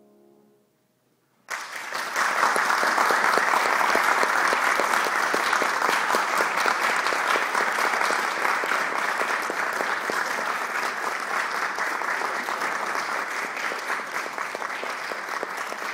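The last piano note dies away, then after a brief silence an audience bursts into applause about a second and a half in and keeps clapping steadily, easing off slightly toward the end: applause at the end of a song.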